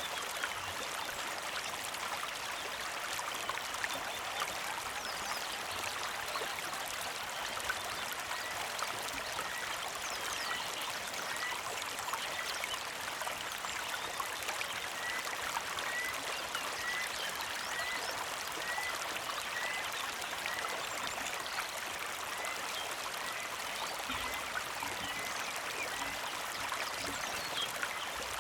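Small creek flowing and trickling steadily. Starting about a third of the way in, a bird repeats a short chirp a little under twice a second, in several runs, with fainter bird calls higher up.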